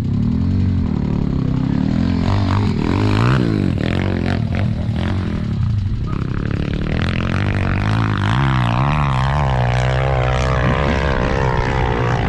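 Off-road motorcycle engines idling steadily close by, with a bike's engine revving up and down between about eight and eleven seconds in.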